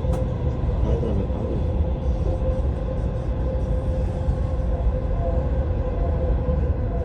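Dubai Metro train running at speed, heard from inside the car: a steady low rumble with a constant whine from the drive.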